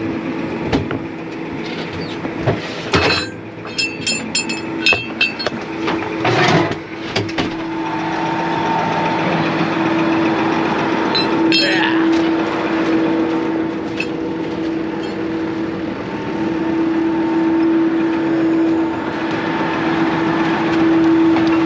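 Heavy diesel engine running hard under load with a steady high whine while a stuck truck is pulled out on a cable and chain. Sharp knocks and rattles come in the first several seconds, then the engine sound holds steady and grows slightly louder.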